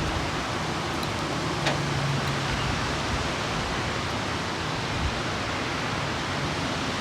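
Strong wind rushing steadily through trees: an even, constant hiss of tossing leaves.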